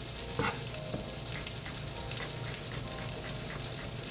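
Oil sizzling steadily in a frying pan, with small scattered pops and crackles.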